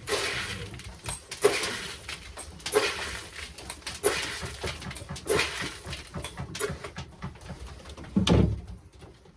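Spoonfuls of pigeon feed grain poured into a feeding bowl: about six rattling pours, roughly one every 1.3 seconds, with a dull thump near the end. Pigeons are cooing in the background.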